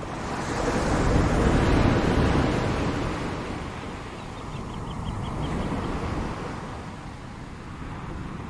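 Ocean surf: a wave breaks and washes in, swelling and fading, followed by a smaller swell a few seconds later. A brief run of faint, quick high chirps comes near the middle.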